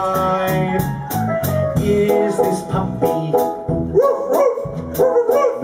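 Live band of keyboard, electric guitar, bass and drums playing an upbeat children's-song instrumental with steady cymbal hits. About four seconds in, a wavering, wobbling vocal line comes in over the band.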